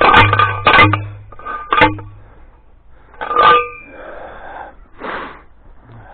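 Steel T-post driver striking a metal fence T-post several times at uneven intervals, each blow ringing briefly with a metallic clang.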